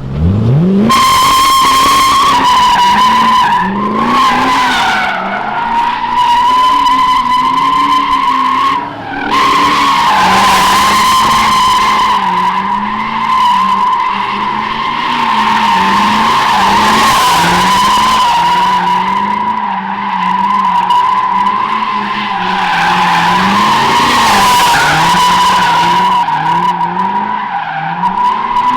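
Pontiac GTO's LS1 V8 revving hard while the rear tyres screech continuously through donuts. The engine climbs in revs at the start, then rises and falls in waves under the steady tyre squeal, with a brief let-up about nine seconds in.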